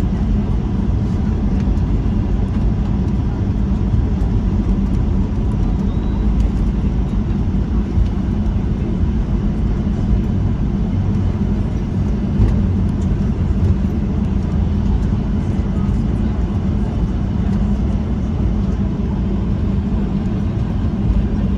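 Steady low rumble of a Boeing 737-800 and its CFM56 engines, with a faint constant hum above it.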